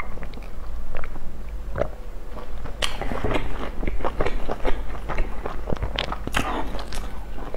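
Close-miked mouth sounds of a person chewing food, an irregular run of small clicks and smacks that gets busier from about three seconds in.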